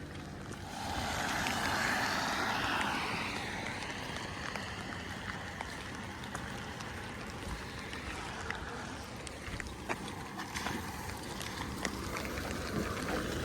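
A vehicle passing on the road, swelling about a second in and falling away in pitch as it goes by. After it, a steady outdoor hiss with faint scattered ticks.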